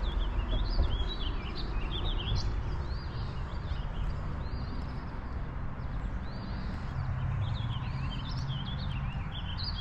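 Songbirds chirping and singing in quick, repeated short phrases over a steady low rumble.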